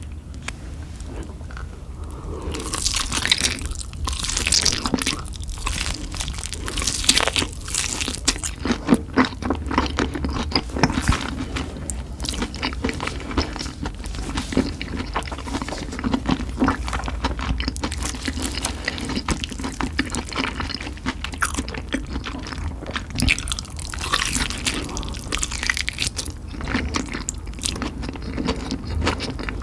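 Close-up sounds of a person eating spicy chicken: biting and chewing with many sharp, irregular crunches.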